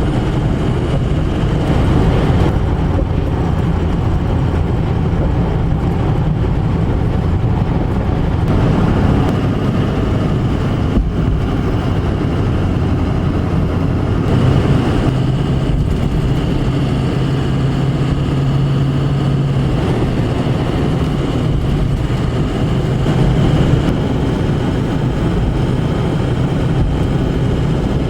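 Car driving, heard from inside the cabin: a steady engine hum with tyre and road noise whose pitch shifts a little now and then.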